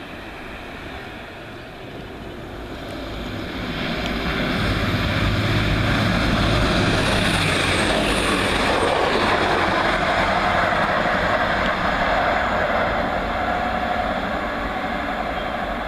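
First TransPennine Express Class 185 diesel multiple unit passing through at speed, with engine and wheels on the rails. It grows louder from about two seconds in, is loudest for several seconds as it goes by, then eases off as it draws away.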